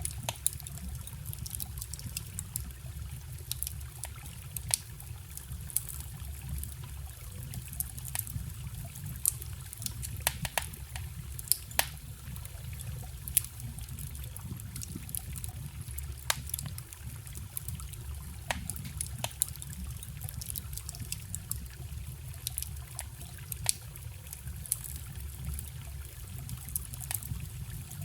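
Wood campfire crackling, with frequent irregular sharp pops and snaps, over a steady low rumble and the trickle of a small forest stream.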